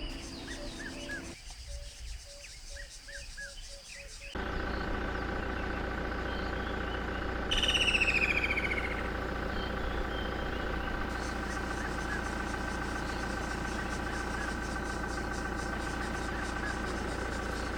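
Birds chirping for about four seconds. Then the sound switches abruptly to a steady, even hum of several sustained tones, with a bird call of quick sliding high notes about eight seconds in.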